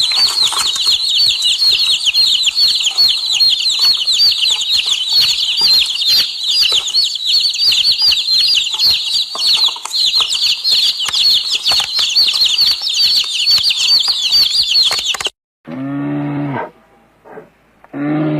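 Many birds chirping in a dense, steady chorus of rapid high peeps. It cuts off suddenly about fifteen seconds in and is followed by a cow mooing twice, each moo low and about a second long.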